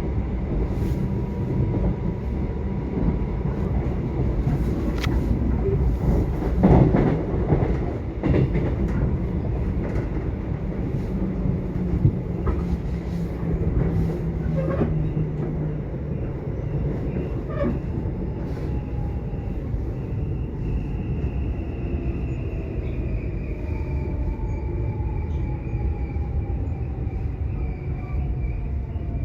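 Subway train running: a steady low rumble with a few sharp knocks from the wheels and car a few seconds in. In the second half a thin high whine slowly falls in pitch.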